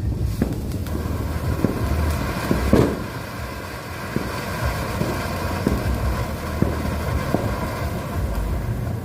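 Happy Boom firework fountain burning: a steady hiss of spraying sparks with scattered sharp pops, the loudest about three seconds in. Wind rumbles on the microphone underneath.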